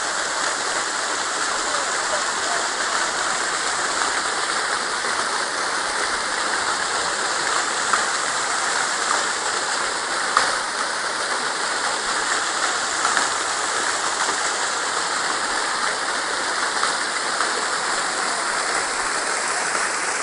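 Steady rush of falling water, an even hiss with a couple of faint sharp clicks around the middle.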